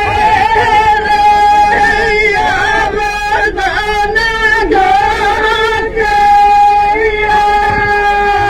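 Women singing a rasiya folk song, with held notes and bending melodic lines.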